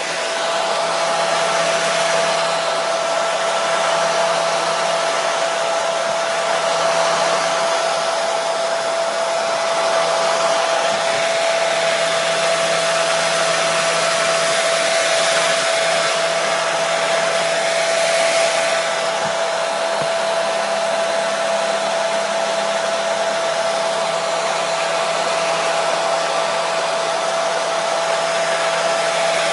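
Hair dryer running steadily: a constant rush of blown air with a steady motor whine and a low hum beneath it.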